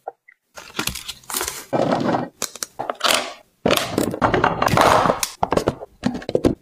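Plastic packaging crinkling, with light clicks and knocks of items being handled and set down, in quick irregular bursts after a brief pause at the start.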